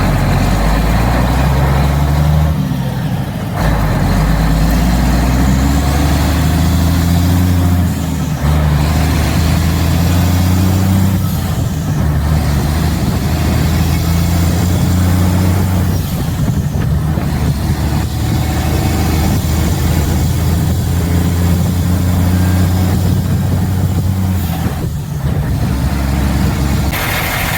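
Mack dump truck's diesel engine running loudly under load. Its pitch shifts at brief breaks every few seconds.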